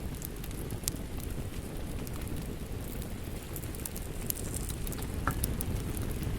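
Wood fire crackling in a fireplace: scattered sharp pops and snaps over a steady low rumble of the flames, with a slightly louder pop about five seconds in.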